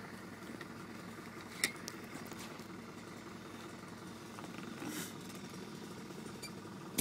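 Land Rover Discovery Mk1 engine idling steadily, heard from inside the cab, with a single sharp click about a second and a half in.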